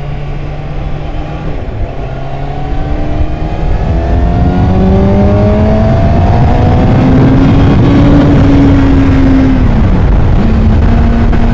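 2013 Kawasaki Ninja ZX-6R 636's inline-four engine under way, pitch climbing steadily for several seconds as it accelerates and gets louder, then dropping about ten seconds in and settling to a steady cruise. Wind noise rushes over the microphone throughout.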